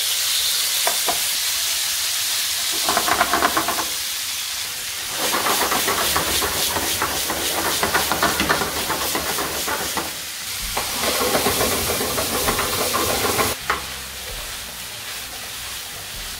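Chicken pieces sizzling in hot oil in a non-stick frying pan while being stirred and turned with a spatula. The frying grows louder in spells as the meat is moved about, and settles to a quieter sizzle in the last few seconds.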